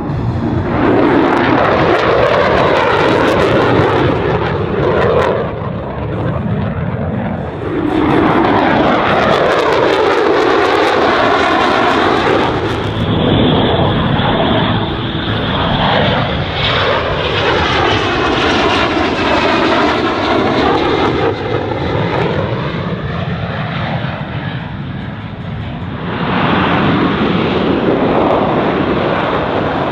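F-35B Lightning II jet fighter's single Pratt & Whitney F135 engine, loud and continuous as the jet manoeuvres close by, with hollow sweeping shifts in tone that rise and fall as it moves. A brief high whine holds for a few seconds near the middle.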